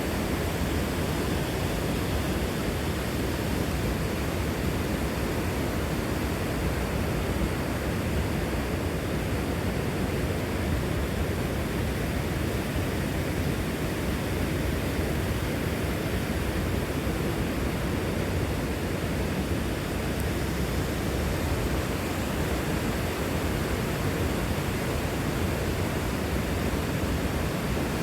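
Torc Waterfall: a steady, unbroken rush of falling water.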